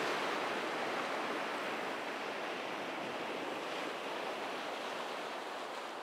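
Ocean surf washing steadily: an even rushing noise that eases slightly toward the end.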